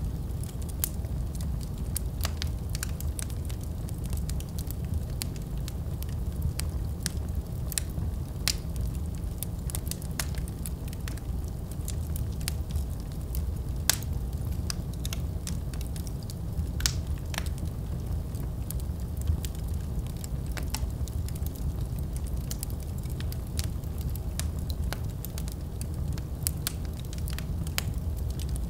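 Wood fire burning in a fireplace, with a steady low rumble and frequent irregular crackles and pops.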